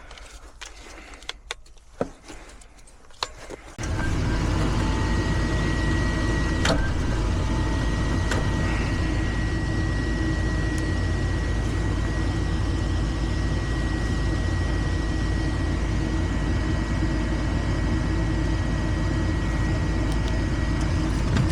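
A few light clicks, then about four seconds in a gas furnace's draft inducer motor starts up and runs steadily with a low hum and a thin high whine, the first stage of the furnace's heat cycle.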